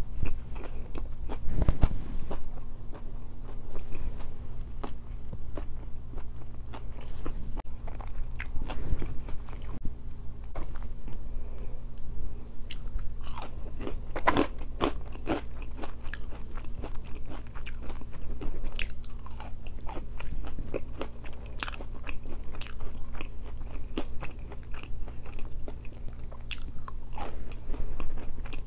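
Close-miked chewing and biting of a grilled chicken wrap and waffle fries: wet mouth sounds with crunches and small irregular clicks, over a steady low hum.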